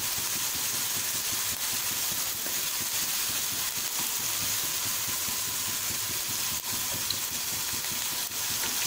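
Chicken shami kababs sizzling steadily as they shallow-fry in oil in a non-stick pan. A few light taps come from a wooden spatula turning them.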